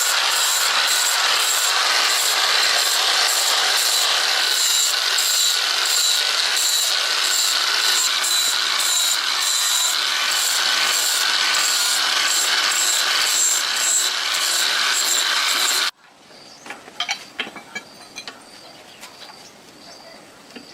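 Hand-held power tool working on the metal of a rusty concrete mixer: a steady motor whine under a loud rasping that pulses a few times a second. It cuts off suddenly about three-quarters of the way through, leaving a few light clicks and clinks.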